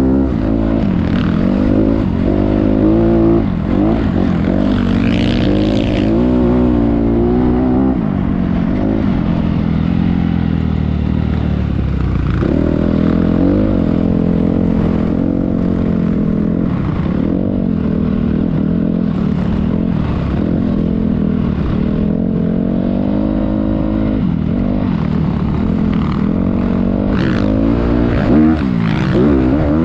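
Motocross bike engine running hard, its pitch rising and falling again and again as the throttle is opened and closed.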